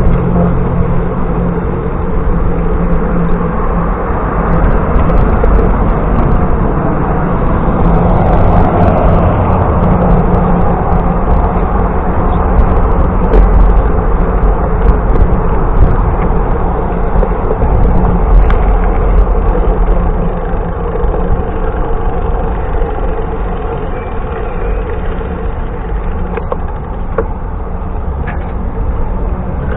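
Steady rumble of wind and road noise from riding a bicycle on the road.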